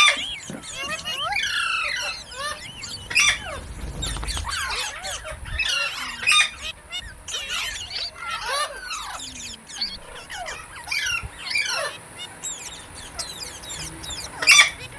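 Pet green parakeet chattering and squawking: a steady stream of short rising and falling calls, with a few sharper, louder screeches, about three seconds in, six seconds in and near the end.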